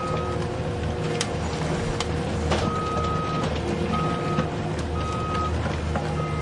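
Reversing beeper of a mini model truck sounding a high electronic tone, beeping four times from about two and a half seconds in, over a steady low hum, with a couple of sharp clicks.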